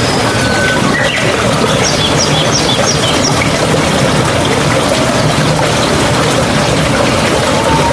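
Steady rush of a mountain stream's flowing water, with a bird chirping faintly over it, including a quick run of high notes about two to three seconds in.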